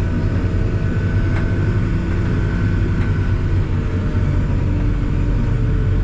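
Backhoe's diesel engine running steadily as the machine drives along, heard from inside its cab.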